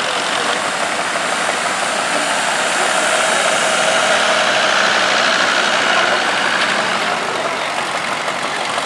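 Vintage tractor engines running in a parade, swelling slightly in the middle and easing off near the end.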